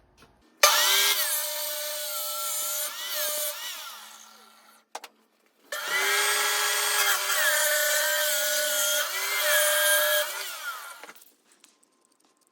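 Electric power saw cutting wood in two long passes, its motor whine wavering in pitch as the blade loads and frees.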